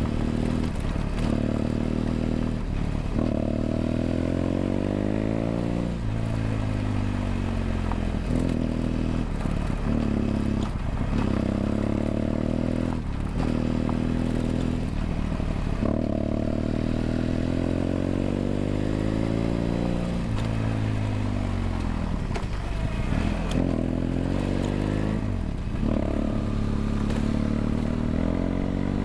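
BMW F800GS's parallel-twin engine through an aftermarket LeoVince stainless slip-on exhaust, heard from onboard while riding: the revs climb again and again, with short breaks as the throttle closes and the gears change. Around two-thirds of the way through, the pitch sinks as the bike slows, then climbs again.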